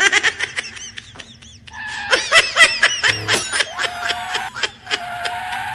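Cartoonish, high-pitched snickering laughter, a meme-style sound effect made of quick chirping rises and falls broken by short clicks.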